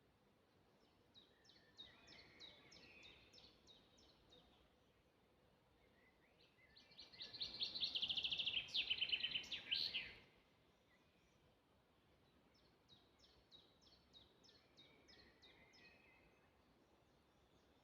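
Songbirds singing in forest ambience. Two faint phrases of quick repeated high notes come near the start and again late on, and a much louder song of rapid trilled notes runs for about three seconds in the middle.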